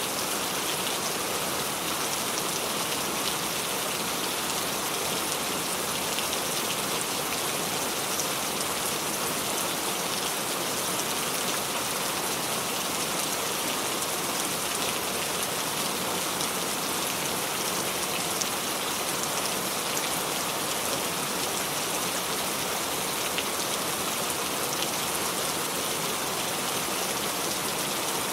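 Steady rain falling on a surface: an even hiss with faint scattered drop patter, unchanging throughout.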